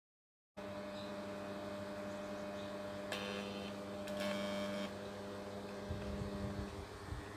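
Steady electrical hum made of several steady tones, with a brief higher buzzing noise about three seconds in and a few low knocks near the end.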